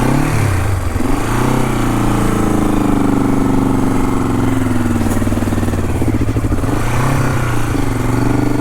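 Honda CL450 parallel-twin motorcycle engine running at low revs, its pitch rising and falling a few times as the throttle is worked.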